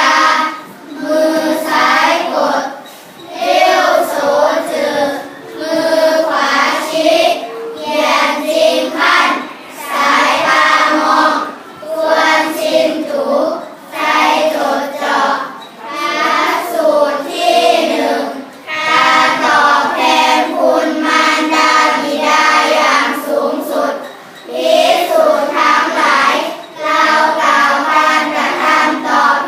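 A group of young schoolchildren chanting a Buddhist sutra in unison, in phrases of about two seconds with short breath pauses between them.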